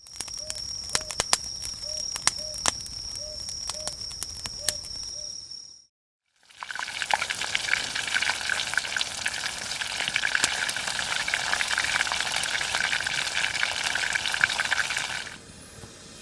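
Sharp pops and crackles over a steady high tone, then, after a brief break, a dense crackling sizzle of food deep-frying in hot oil.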